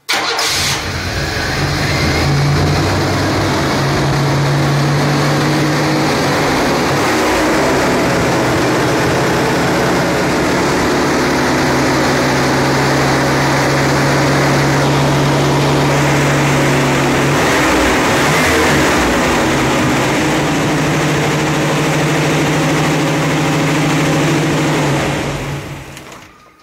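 Chevy V6 with throttle body injection running strong, a loud steady drone. It starts suddenly, its pitch shifts briefly twice (about a third of the way in and again past the middle), and it dies away near the end.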